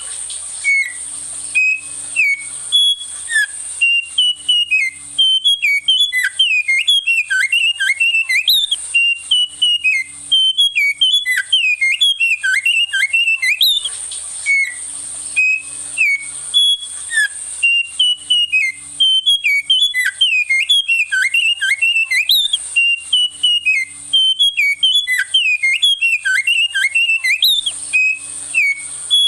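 A local songbird whose song resembles the wambi mini's, singing loud, fast runs of clear whistled notes that slide up and down, in a sequence that repeats about every 14 seconds. A steady high-pitched hiss runs underneath.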